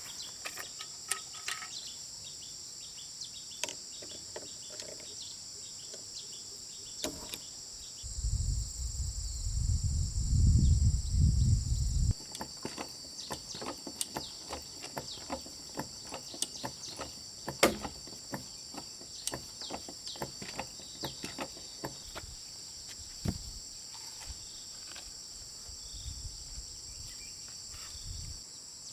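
Steady high-pitched insect chorus, with scattered light clicks and knocks throughout. A loud low rumble lasts about four seconds from around eight seconds in and cuts off sharply.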